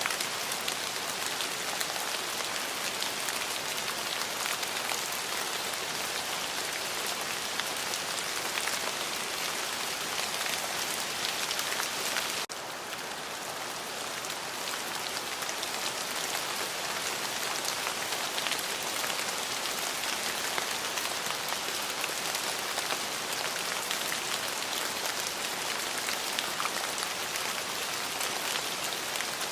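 Steady rain falling on a surface: a dense hiss with many fine drop impacts, and no thunder. About twelve seconds in, the level drops abruptly and briefly, then returns to its earlier level.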